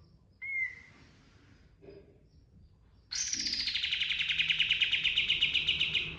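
Kapas tembak singing: a short whistled note about half a second in, then about three seconds in a loud, rapid rolling trill that starts high, slides down and holds steady until it cuts off abruptly.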